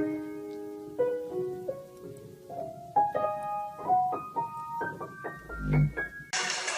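Piano notes sounded one or two at a time, stepping upward in pitch and coming faster as they go, with a low thud near the end before the sound cuts to a steady hiss.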